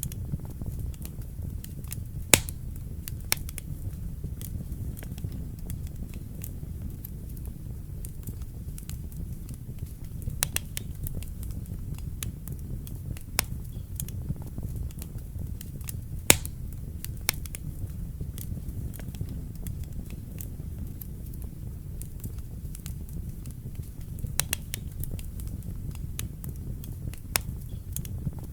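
Wood fire burning in a fireplace: a steady low rumble of the flames with irregular sharp crackles and pops, two of them louder, about two seconds in and again past the middle.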